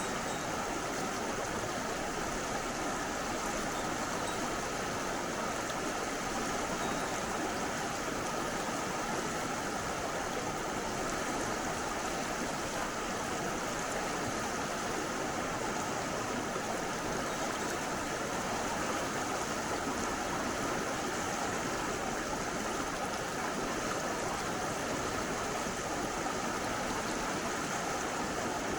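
Steady rush of a mountain stream's running water, even and unbroken.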